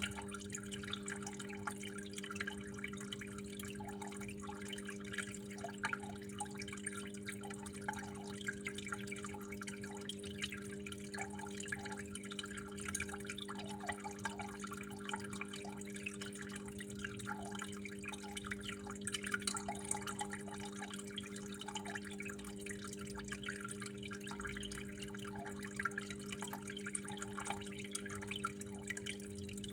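Water flowing and dripping steadily, with many small irregular drips and splashes over a constant low hum.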